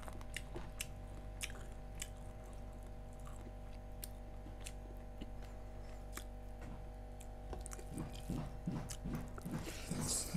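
A person eating rice and chicken curry close to a clip-on microphone: soft mouth clicks and small eating noises, turning about three-quarters of the way through into steady chewing at about two chews a second. A faint steady hum of held tones lies underneath.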